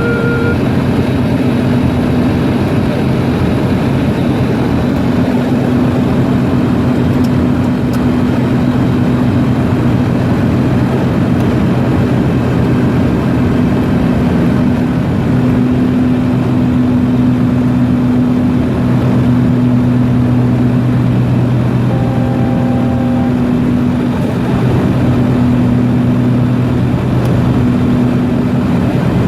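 Steady drone of a propeller aircraft's engines on approach, heard loud and close throughout. Two brief tones stand out, one just at the start and one about 22 seconds in.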